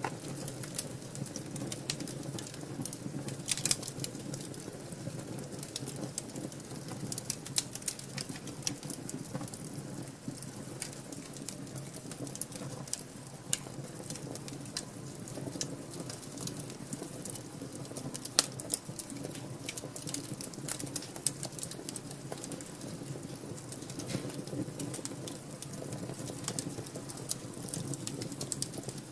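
Wood fire burning in a fireplace: a steady low flutter of flames with frequent sharp crackles and pops scattered throughout.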